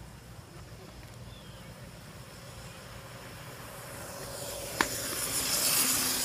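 MX500 electric dirt bike drawing nearer: its hiss and motor whine grow louder over the last two seconds, with one sharp click shortly before.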